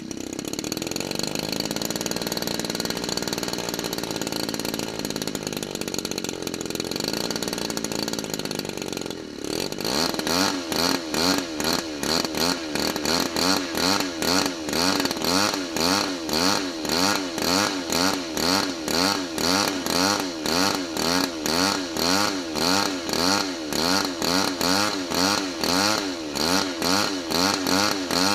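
Single-cylinder 35cc DLE two-stroke gasoline engine of an RC scale warbird running with its propeller. About nine seconds in the sound changes to a steady wobble in loudness and pitch, about twice a second.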